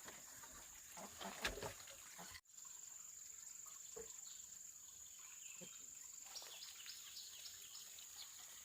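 Faint outdoor ambience: a steady high-pitched insect drone, with a quick run of bird chirps about six seconds in and a few soft knocks.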